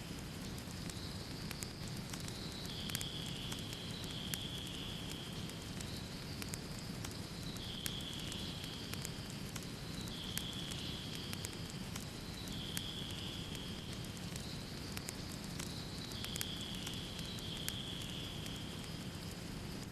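Wood fire burning in a fireplace: a steady low rumble of flames with frequent sharp crackles and pops. A high hiss comes and goes every two to three seconds, each time lasting about a second.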